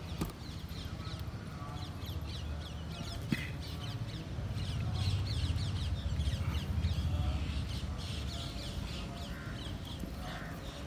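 Birds calling outdoors, with a dense run of quick, repeated chirps in the middle stretch, over a low steady rumble.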